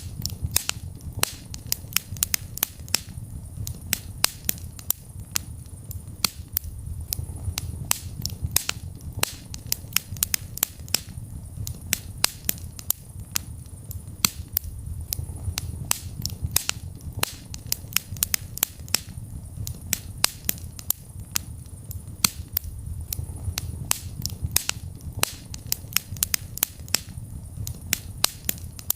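Wood fire burning in a fireplace: dense, irregular sharp crackles and pops over a low, steady rumble of the flames.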